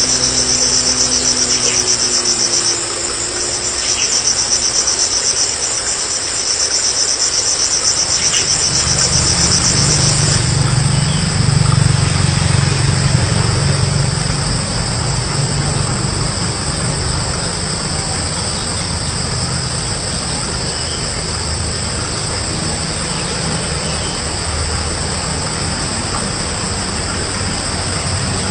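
Insects trilling steadily at a high pitch, pulsing for about the first ten seconds and then settling into a continuous hum. A low rumble comes in about eight seconds in.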